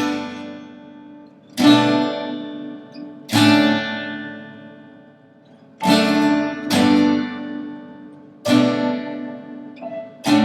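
Acoustic guitar strumming single chords slowly, each left to ring and die away before the next; about six strums, spaced one to two and a half seconds apart.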